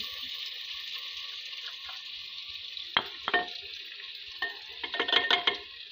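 Onion-tomato masala sizzling in oil in a clay pot as dry spices are tipped in. Sharp taps and scrapes on the pot come about three seconds in, and a quick run of them near the end.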